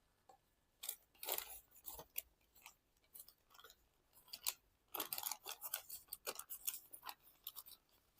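Origami paper crinkling and rustling as it is folded and creased by hand into a bird base, in short, scattered crackles that come thickest about a second in and again from about five to seven seconds in.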